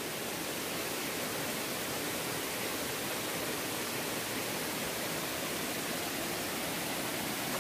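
Steady rush of a waterfall: an even hiss of falling water with no breaks or changes.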